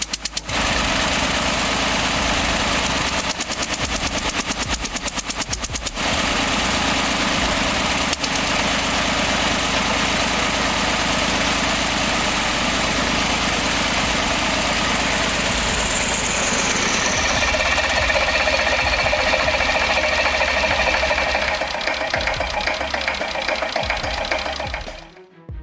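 Old engine running with a rapid, regular knocking beat. It fades out shortly before the end.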